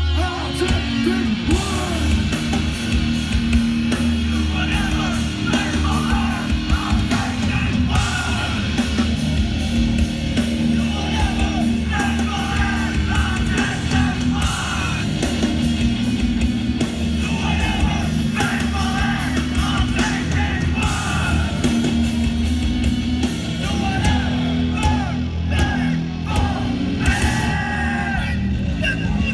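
Hardcore punk band playing live: yelled vocals over heavy guitars, bass and pounding drums.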